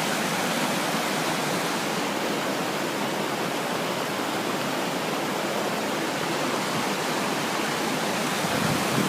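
Pistyll Rhaeadr waterfall: a loud, steady rush of falling water, even and unbroken.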